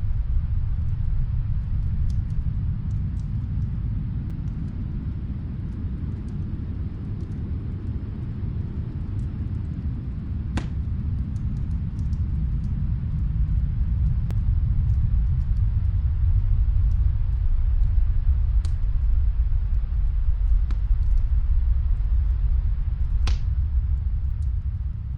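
Deep, steady rumbling wind of a snowstorm, easing and then swelling again, with faint scattered crackles from a fireplace in another room and two sharper pops.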